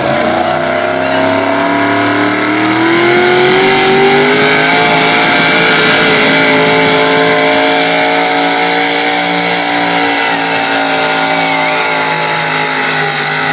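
Super stock 4x4 pulling truck's engine at full throttle dragging the weight sled: the pitch climbs over the first few seconds, holds high and steady, then eases slightly near the end.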